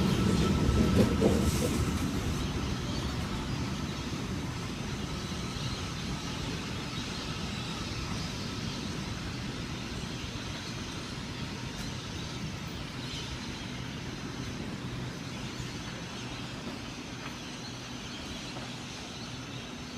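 A train rumbling past on the tracks, loud at first and then fading steadily as it moves away.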